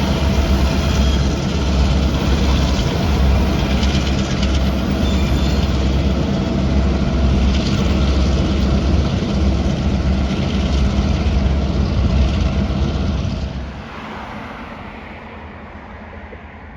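A train passing at close range: a steady, loud rumble and rolling noise of the wheels on the rails. It drops off sharply about 13 seconds in and fades as the train moves away.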